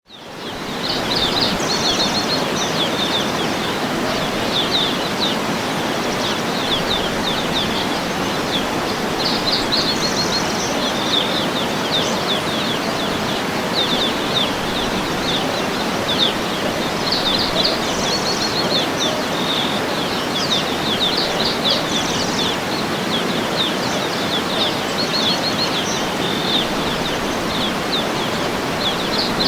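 Small songbirds chirping and singing in repeated phrases of quick high notes over a steady rushing background hiss. The sound fades in over the first second.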